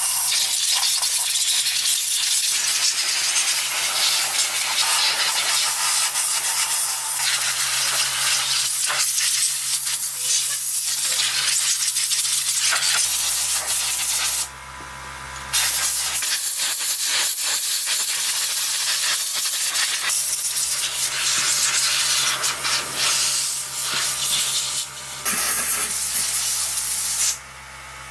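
Loud, steady hissing noise, like air or spray, that drops out briefly about halfway through and again near the end.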